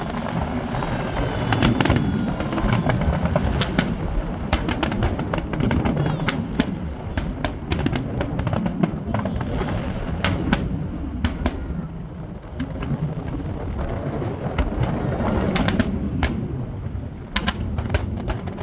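Fireworks going off: many sharp cracks and pops at irregular intervals over a continuous low rumble of distant bursts.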